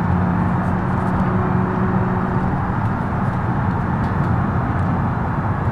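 Minivan engine running steadily, an even low drone with a constant hum.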